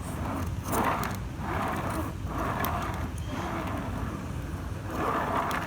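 Small wheels of a homemade cardboard model subway car rolling along a surface in several separate pushes, over a low rumble.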